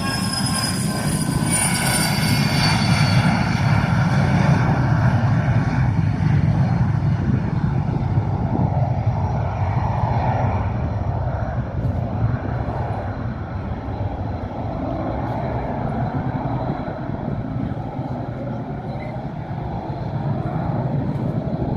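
An airliner's engines passing close by: their whine falls in pitch over the first few seconds, then gives way to a steady rumble that slowly eases off.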